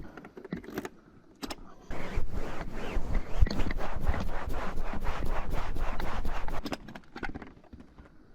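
Rustling, scraping and quick clicking, loudest in a long stretch from about two seconds in to about seven seconds in.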